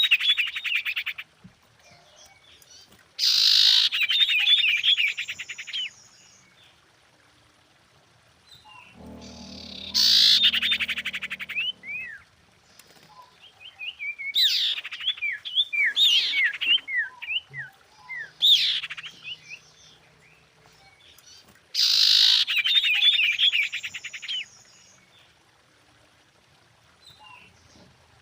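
Common iora singing in about five bouts, each a burst of rapid chattering notes followed by quick down-slurred whistles, with short pauses between.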